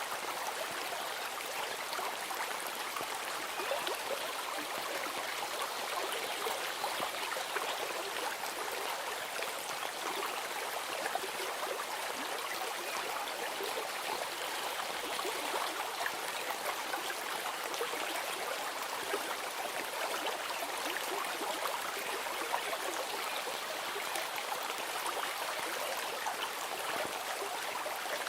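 Steady flowing stream: water running and trickling with an even rush and small splashes.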